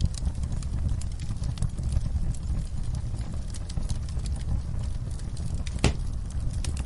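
Wood fire crackling in a fireplace: irregular small snaps and pops over a low steady rumble of the flames, with one louder, sharper pop about six seconds in.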